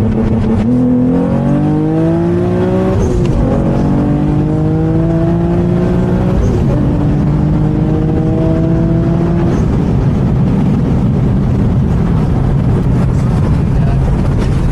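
Twin-turbo Infiniti G37's V6 engine accelerating hard through the gears, its pitch climbing and then dropping at upshifts about 3 and 6.5 seconds in. After about 10 seconds the engine note gives way to a steady rush of road and wind noise.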